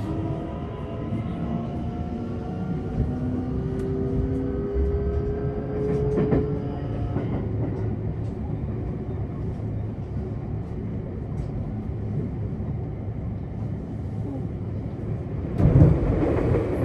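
Electric commuter train running, heard from inside the carriage: a steady rumble of wheels on rails, with the motors' whine rising in pitch over the first several seconds as the train picks up speed, then fading. A short, louder rush of noise comes near the end.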